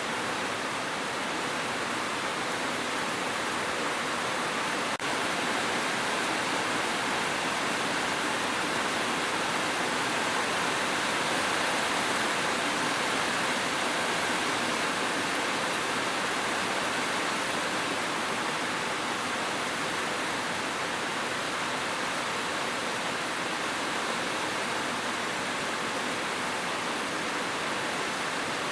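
Steady, dense rain: an even rushing hiss with no separate drops standing out, and a momentary dropout about five seconds in.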